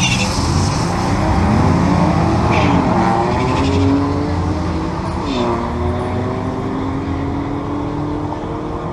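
Vehicle engine accelerating hard, its pitch climbing steadily, then dropping at a gear shift about five seconds in and climbing again.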